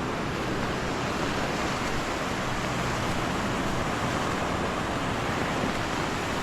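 Storm surf breaking on the shore, a steady rushing noise, with wind buffeting the microphone.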